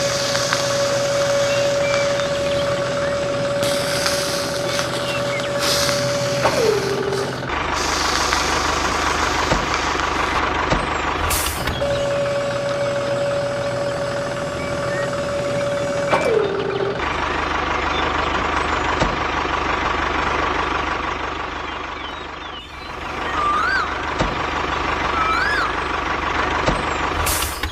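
A motor running with a steady whine. Twice the whine holds for about six seconds, then drops in pitch and stops, over a continuous machine noise.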